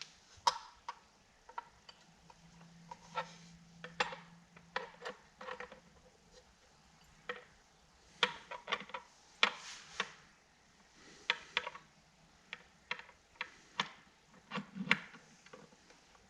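Small metal parts of a vent window latch clicking and clinking as the handle is fitted over its spring-loaded button and pressed into place: irregular sharp clicks and taps.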